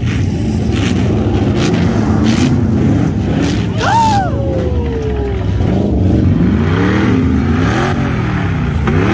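Several bump-and-run race car engines running hard and revving, their pitch climbing and falling over and over in the second half. About four seconds in, a brief high whine rises and then slides down.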